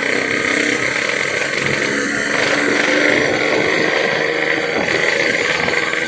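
Yamaha RX-King's two-stroke single-cylinder engine running through a gutted (bobokan) exhaust, a loud, raspy note; the engine note changes about two seconds in.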